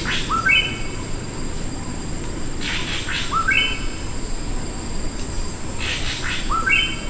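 A bird calling the same phrase three times, about three seconds apart: a harsh rasp followed by a nasal, upward-sweeping note.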